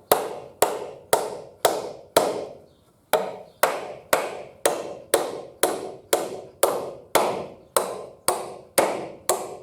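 Hammer driving nails into timber, steady blows about two a second, with a short pause about three seconds in.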